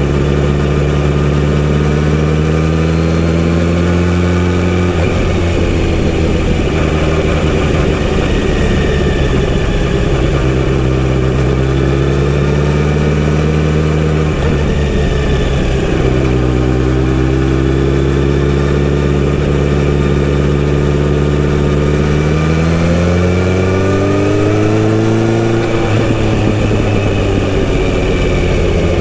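Kawasaki Z900RS inline-four engine running through a full-system exhaust while being ridden, its note holding steady for stretches. The pitch drops sharply twice, about five seconds in and again around fifteen seconds, and climbs steadily near the end before falling back.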